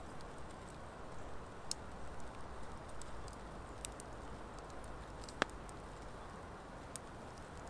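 Campfire of driftwood and dry hardwood logs burning, with a soft steady rush of flames and scattered sharp crackles. One louder pop comes about five and a half seconds in.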